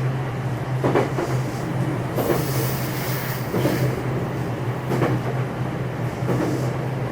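Running sound inside the motor car of a JR West 227 series electric train (Hitachi IGBT VVVF inverter) between stations: a steady low hum and rolling noise, with the wheels clacking over rail joints about every second and a half.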